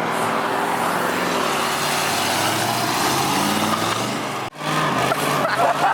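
Loud car engine and exhaust revving, its pitch rising and falling. The sound cuts out abruptly for a moment about four and a half seconds in, then the engine comes back rougher, with crackling.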